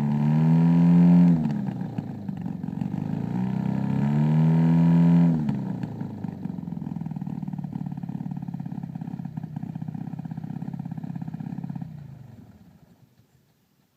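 Engine running through a newly fitted exhaust: it is revved twice, its pitch climbing and dropping back each time, then settles to a steady burbling idle that dies away about twelve seconds in.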